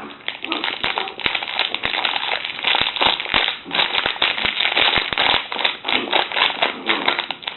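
Packaging of dried mango pieces crinkling and crackling as it is handled, a dense run of irregular sharp crackles.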